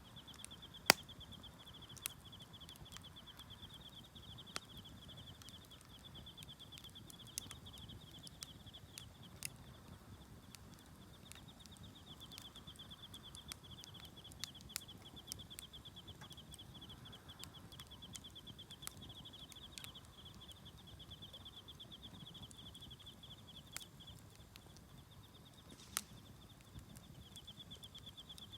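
Insects chirping in a continuous, fast-pulsing high trill, over a campfire's burning wood crackling with scattered sharp pops, the loudest about a second in and another near the end.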